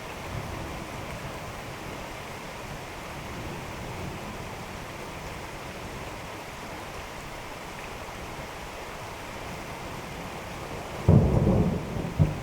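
Steady rain during a thunderstorm. Near the end a sudden loud thunderclap breaks in and rolls on as rumbling.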